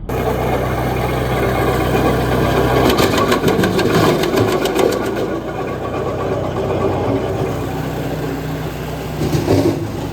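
Gasoline wood chipper running steadily. About three seconds in comes a rapid run of cracks and knocks, as of branches being chipped, and a short louder burst follows near the end.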